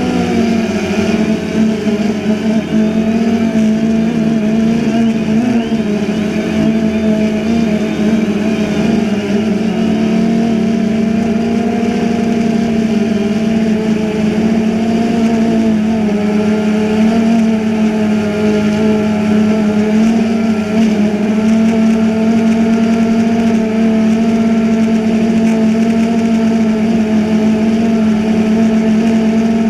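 DJI Phantom 2 quadcopter's electric motors and propellers running in flight: a loud, steady buzzing hum with slight wavers in pitch, close to the camera carried on the drone.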